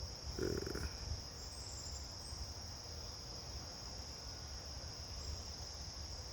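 Steady high-pitched drone of insects in the background, with a low rumble underneath.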